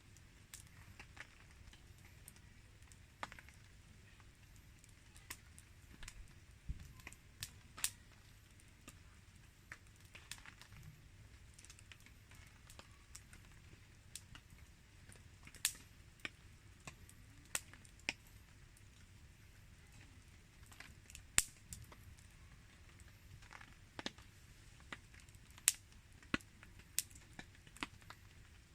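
Wood campfire crackling: irregular sharp pops and snaps over a faint steady hiss of rain.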